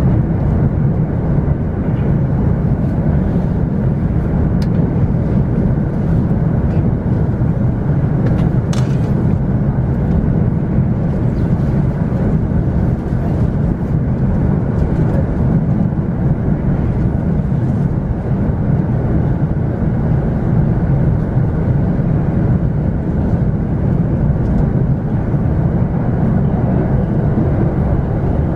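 Electric commuter train running at speed, heard from inside the car: a loud, steady, low rumble of wheels on rails as it crosses a steel river bridge.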